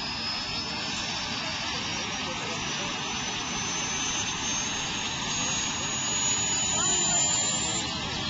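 A powerful engine running steadily under loud rushing noise, with a thin high whine that slowly rises in pitch.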